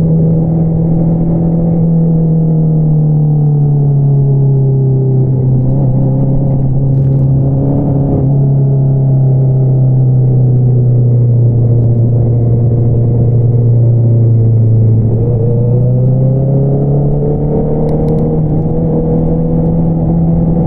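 Honda CBR650R inline-four running through an Akrapovič single-outlet exhaust while riding. The engine note sinks slowly as the revs ease off for most of the stretch, then climbs again about three-quarters of the way in as the bike accelerates.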